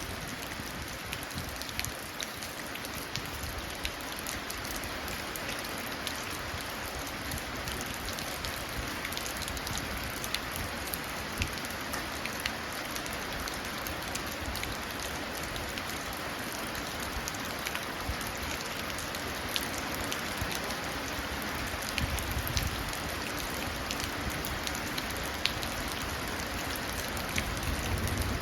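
Steady rain falling and splashing into a puddle, a continuous hiss dotted with many sharp drop ticks.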